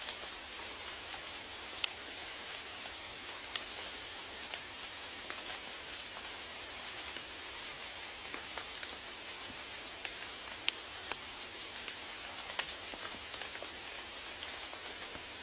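Steady rain, an even hiss with individual drops ticking sharply every second or so.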